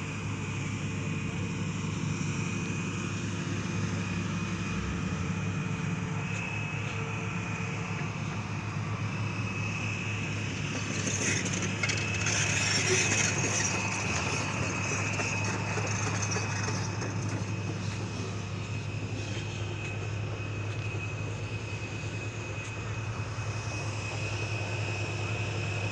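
Steady running hum of a vehicle engine, with a constant high whine above it; a louder rush of noise swells about halfway through.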